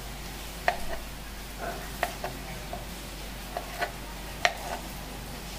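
Steady rain hissing, with several irregular sharp knocks of a knife on a cutting board as chicken sausages are sliced.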